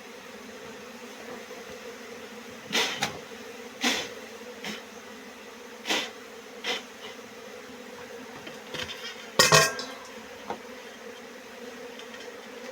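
Honeybees buzzing in a steady hum, broken by a handful of short, sharp knocks, the loudest a double knock about nine and a half seconds in.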